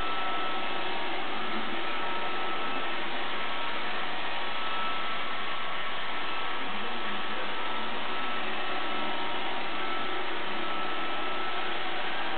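iRobot Roomba 560 robot vacuum running: a steady whirring noise with a thin, steady whine over it.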